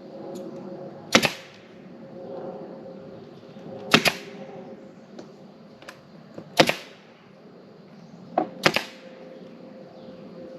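Pneumatic air stapler firing staples into the camper's roof panel: sharp single shots every two to three seconds, a couple of them as quick doubles.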